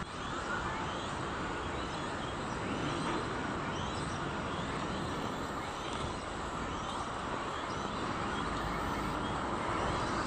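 Many small birds chirping in short rising notes over a steady hum of city background noise.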